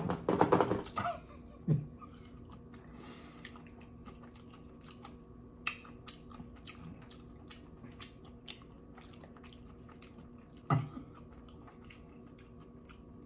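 Close-miked mouth chewing a mouthful of sushi: soft, wet clicks and smacks scattered through, after a short vocal sound at the start and with a brief hum near the end.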